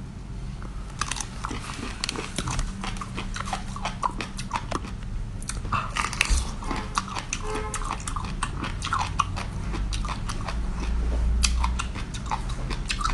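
A person biting and chewing crunchy seafood: a dense, irregular run of crisp crunches and crackles, over a steady low hum.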